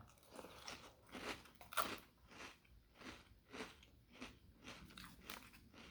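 A mouthful of large puffed Cocoa Pebbles Crunch'd cereal being chewed close to the microphone: faint, irregular crunching chews, two or three a second.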